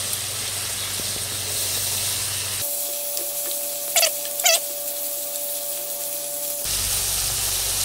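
Lamb, onions and ground spices sizzling with a steady hiss in a hot frying pan as they are stirred with a wooden spatula. Two short scraping sounds come about four seconds in.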